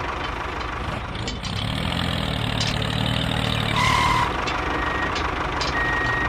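Engine running with a steady low hum, and a short beep about four seconds in.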